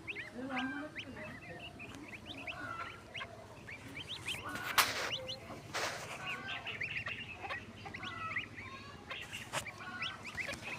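Swans calling with short honking notes, over a busy background of many quick high chirps from other birds. Two brief rushing noises come about five and six seconds in.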